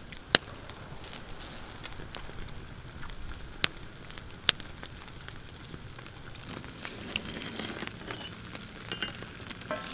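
Sockeye salmon bellies sizzling as they cook over a crackling campfire, with three sharp pops in the first half.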